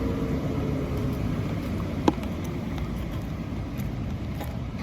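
Steady rain with a low, even background rumble, and a single sharp tap about two seconds in.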